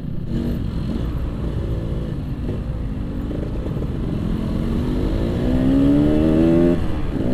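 Yamaha RX-King's single-cylinder two-stroke engine pulling on the road over low wind rumble. Its pitch climbs steadily through the second half, drops sharply near the end, then picks up again.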